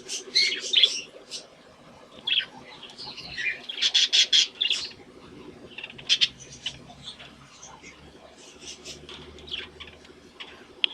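Budgerigars chirping and chattering in quick, irregular bursts of high notes, with a louder flurry of squawky chirps about four seconds in, over a steady low warbling.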